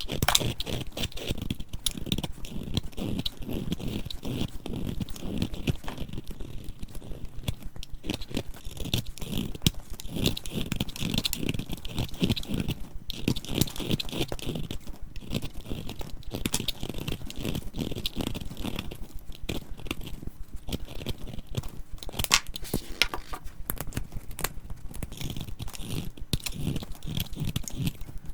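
Dried soap being crushed, a dense, continuous run of crisp crunching and crackling.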